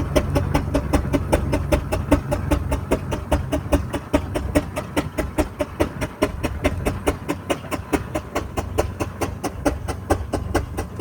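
Burrell steam traction engine chuffing: a steady run of regular exhaust beats, about five a second, with a low rumble underneath that eases off about three seconds in.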